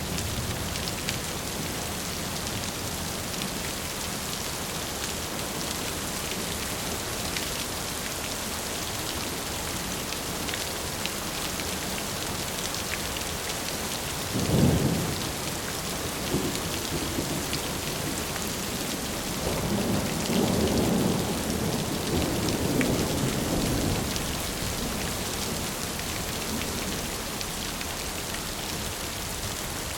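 Steady rain falling, with thunder: a sharp clap about halfway through, then a longer rolling rumble a few seconds later.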